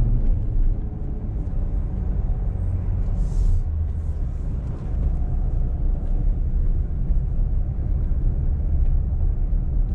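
Car engine and road noise, low and steady, as the car climbs a steep road. A short hiss about three and a half seconds in.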